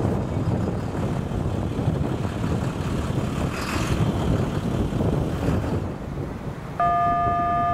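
A freight train rumbling past with strong wind buffeting the microphone. Near the end a locomotive air horn suddenly sounds a steady, multi-note chord.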